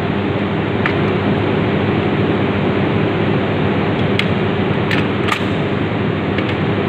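Machine running with a steady, loud hum and hiss, with a few faint clicks about four and five seconds in.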